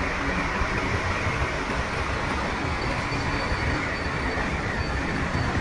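Crawler bulldozer working, its diesel engine running steadily under the metallic clatter and squeal of its steel tracks.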